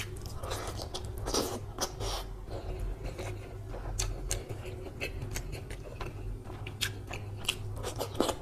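Close-miked chewing of mouthfuls of mushroom pulao and chicken curry eaten by hand, with many sharp little wet clicks and smacks from the mouth, and the soft squish of fingers working rice and chicken on the plate about halfway through.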